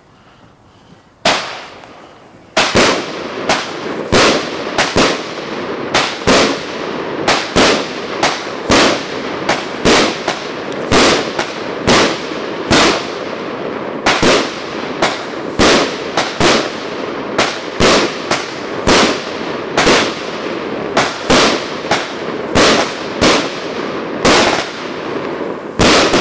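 Fireworks going off: a single bang about a second in, then, from about two and a half seconds in, a steady string of loud reports at roughly one and a half a second, with crackle between them.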